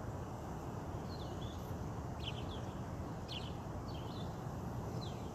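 Steady rumble of distant highway traffic, with a bird giving short, downward-sliding chirps every second or so over it.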